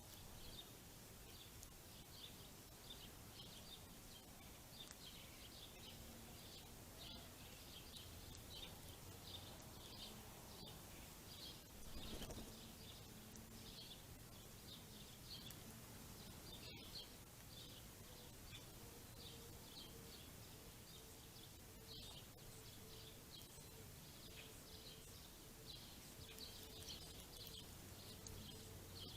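Small songbirds chirping and twittering faintly and continuously in short high notes, over a faint low hum, with one brief louder noise about twelve seconds in.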